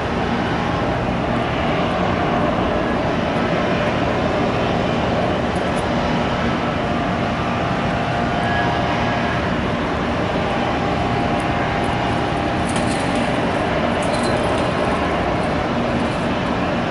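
Steady, loud rumble of vehicle noise, like road traffic, with no clear changes.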